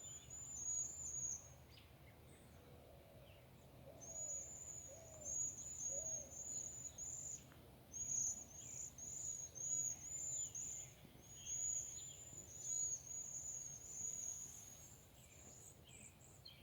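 Small songbirds calling: runs of high, thin, arched notes about two a second, broken by short pauses. A few low hooting notes sound in the first half.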